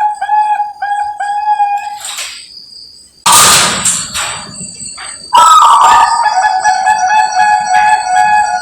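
A Bangkok-type perkutut (zebra dove) cooing in a quick run of short, even notes for about two seconds. A rooster then crows: a harsh call about three seconds in, then a long drawn-out crow from about halfway through.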